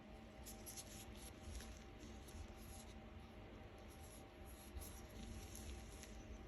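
Faint, light scratching and rubbing of an ear-cleaning tool working in an ear: a run of short, soft scratches.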